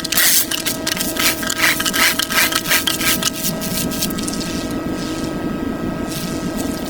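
Rapid rubbing strokes over a steady hum; the strokes thin out about three seconds in while the hum carries on.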